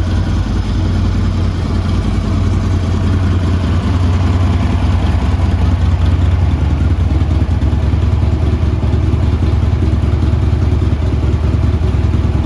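A 2016 Harley-Davidson Street Glide Special's V-twin engine idling steadily.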